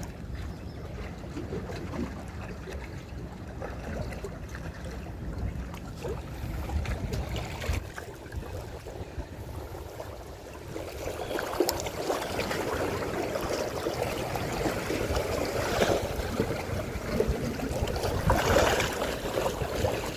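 Seawater sloshing and lapping, getting louder about halfway through, with a low rumble and a few small clicks.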